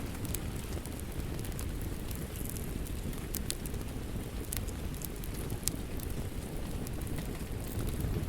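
A crackling wood fire with scattered sharp pops, mixed with the steady hiss and low rumble of falling rain.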